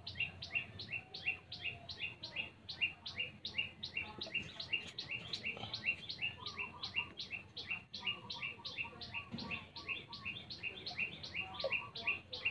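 A bird calling one short, falling chirp over and over at a steady pace of about three a second.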